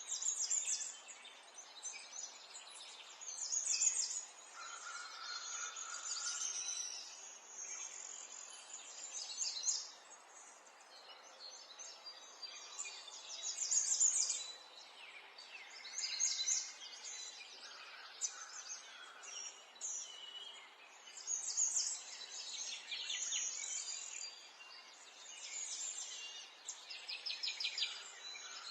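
Several small birds chirping and twittering, short high trills every second or two over a faint steady background hiss.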